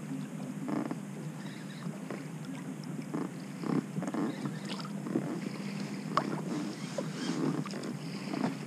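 Small waves slapping and lapping irregularly against the hull of a small fishing boat, over a steady low rumble.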